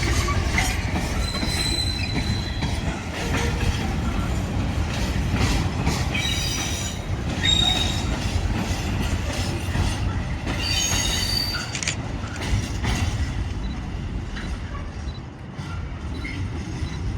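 A train running through the station, a heavy steady rumble with brief high-pitched wheel squeals coming and going, easing off near the end.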